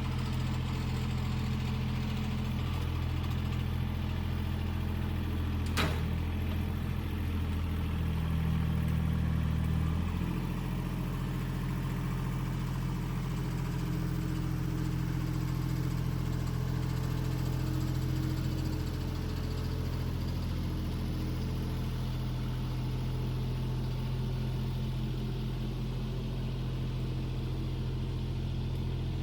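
An engine idling steadily, its note shifting about ten seconds in, with a single sharp click about six seconds in.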